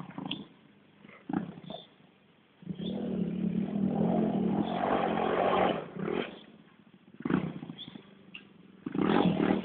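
Pit bike engine revved in short blips, then held at a steady rev for about three seconds, then blipped again and running harder near the end.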